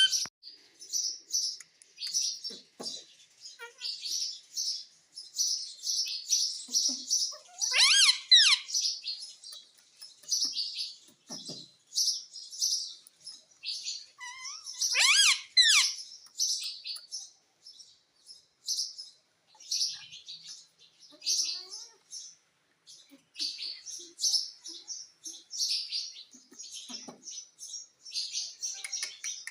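A pet parrot chattering in short, high chirps throughout, with two louder calls that slide up and down in pitch about 8 and 15 seconds in.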